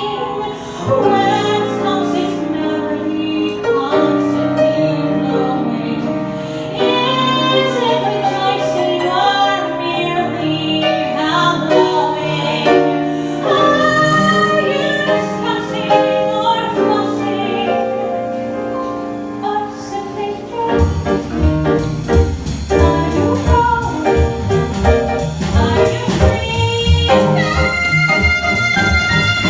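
A woman singing a jazz arrangement of a show tune over instrumental accompaniment. About two-thirds of the way through, a rhythm section with drums and bass comes in and the music gets busier.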